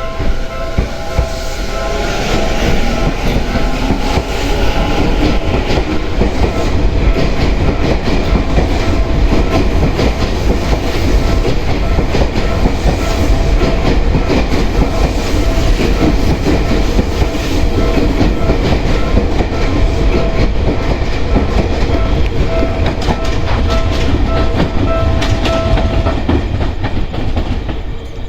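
Tokyu 5050 series electric train pulling out of the station and running past. A motor whine rises in pitch over the first few seconds as it accelerates, with the wheels clacking over rail joints and a steady rumble as the cars go by. The sound drops away near the end.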